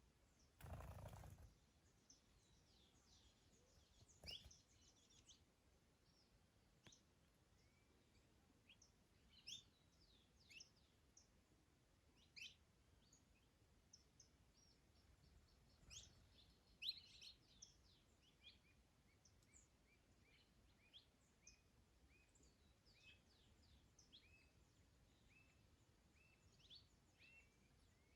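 Several small birds chirping and singing faintly, with short scattered calls throughout and a run of quick repeated short notes in the second half. A brief rush of noise, like a gust on the microphone, about a second in.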